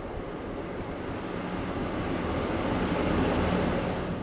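A train passing at speed: a rushing rumble with a steady low hum underneath that builds to a peak about three seconds in, then cuts off suddenly.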